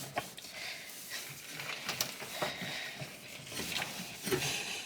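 Wiping loosened grime off the inside of an oven, coming off easily without scrubbing: faint rubbing with a few small knocks.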